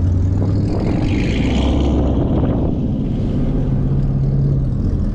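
Car engine running at steady low revs under way, heard from inside the cabin together with road and tyre noise.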